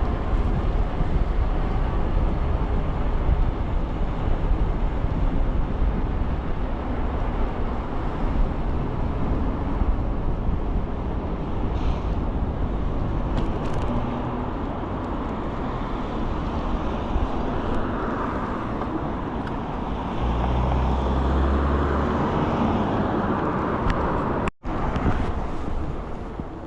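Steady wind rumble and road noise while riding the Ikingi S6 Pro, with a stronger low gust about 20 to 22 seconds in. The sound drops out for a split second near the end.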